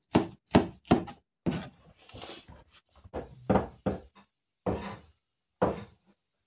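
Kitchen knife chopping on a wooden cutting board: a string of separate dull knocks at an uneven pace, with a short hiss about two seconds in.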